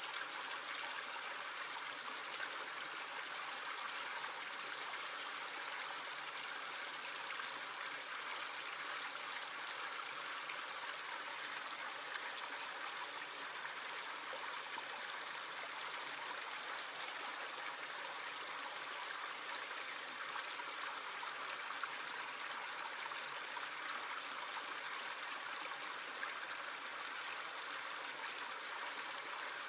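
A small creek running steadily, water rushing and trickling over stones.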